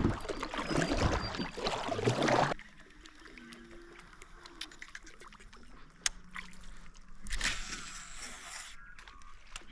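Water splashing and sloshing against a kayak hull. It is loud and dense for about the first two and a half seconds, then drops off abruptly. After that come quieter water sounds with scattered ticks, and a short stretch of louder water noise around seven seconds in.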